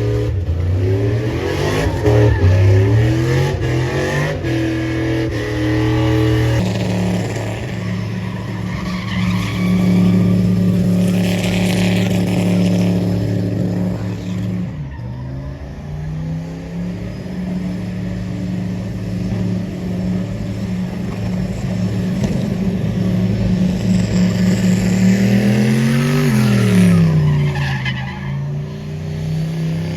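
Truck engines running and being revved, their pitch climbing and dropping with each rev; one clear rev up and back down comes near the end.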